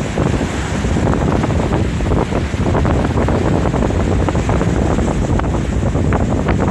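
Strong wind buffeting the microphone, a loud continuous rumble with crackling gusts, over the wash of surf.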